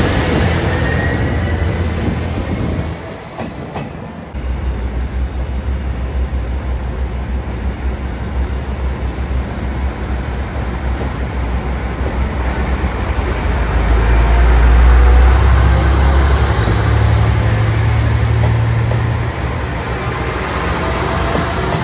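JR Shikoku 1500 series diesel railcar: wheels squealing on the rails for the first few seconds, then, after a sudden break, its diesel engine running with a deep steady hum that grows louder to a peak a little past the middle and then eases.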